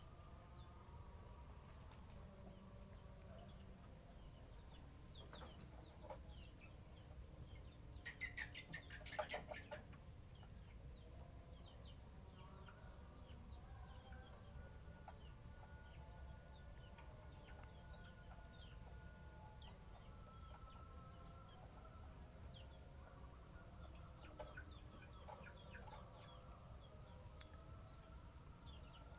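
Faint background bird calls: many short chirps throughout, with a louder burst of rapid calls about eight seconds in.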